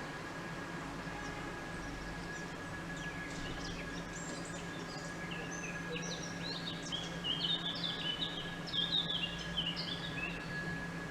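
A small songbird singing a long run of quick chirping notes, starting about three seconds in, over steady outdoor background noise with a faint constant hum.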